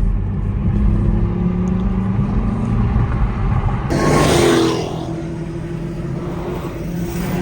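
Car engines running, with a car accelerating hard past about four seconds in, a loud rushing surge that fades within a second.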